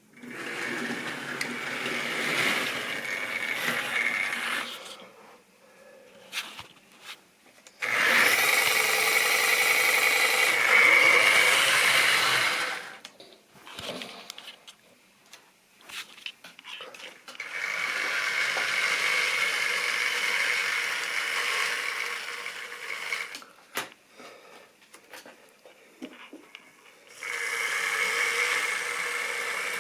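Model railway train running round a loop of track: an electric motor whirring and wheels rumbling on the rails. The train swells and fades four times as it passes close by. Between passes there are scattered light clicks.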